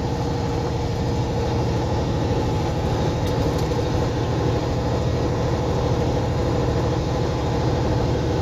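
Semi truck's diesel engine running steadily under way, heard from inside the cab as a low, even drone.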